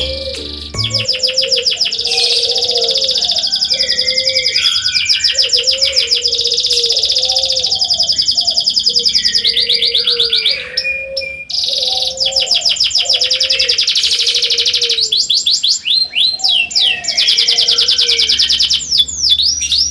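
Domestic canary singing long phrases of rapid, high trills, with a short break about eleven seconds in. Underneath runs a lower, repeated wavering sound.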